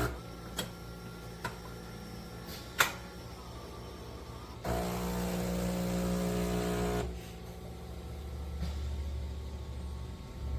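Philips Series 2300 automatic espresso machine working through the espresso stage of a cappuccino: a few sharp mechanical clicks, then a motor hum for about two seconds, then a lower, steady hum.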